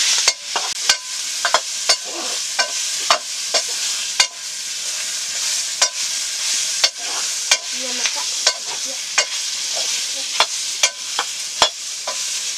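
Greens sizzling as they fry in a pan, stirred with a utensil that knocks and scrapes against the pan about twice a second.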